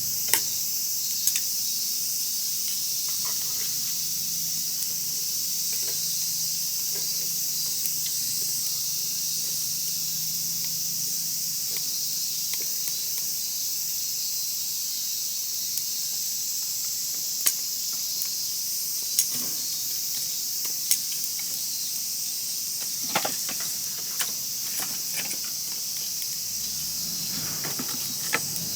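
Wood fire crackling, with scattered sharp pops, over a steady high-pitched hiss.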